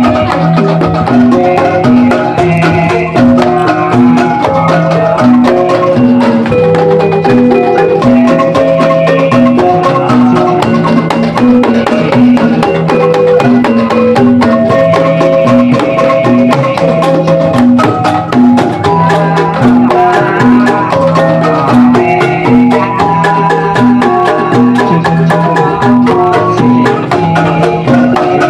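Javanese gamelan ensemble playing jathilan accompaniment. Interlocking metallophone and gong-chime melodies repeat in a steady cycle over a low bass pattern, driven by frequent drum strokes.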